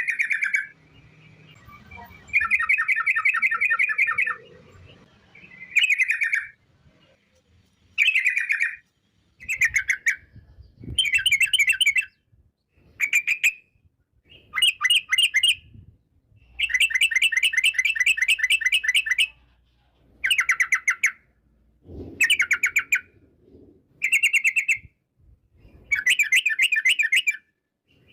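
Yellow-vented bulbul (trucukan) singing: about a dozen loud phrases of fast rolling trills, the long rapid 'ropel' runs prized by bird keepers, some under a second and some nearly three seconds long, with short pauses between them.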